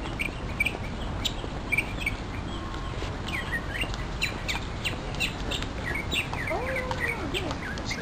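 A songbird singing a long, varied run of short chirps and sliding whistled notes, sparse at first and coming faster from about three seconds in, over a steady low background hum.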